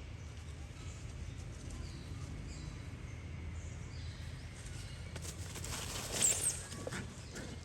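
Outdoor ambience: a steady low rumble with faint, short high chirps, and a louder noisy burst with a brief high squeak about six seconds in.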